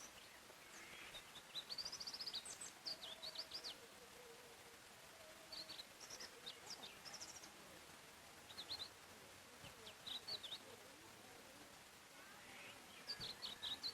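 Songbirds singing in a forest: several short phrases of quick, high, repeated chirps and trills a few seconds apart, faint, over a soft steady hiss of ambience.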